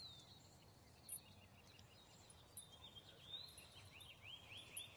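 Near silence with a faint songbird singing in the background: one falling whistled note at the start, then a quick run of about six short slurred notes near the end.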